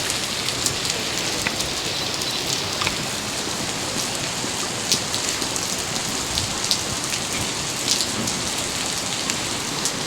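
Heavy rain falling steadily, with individual drops ticking close by now and then.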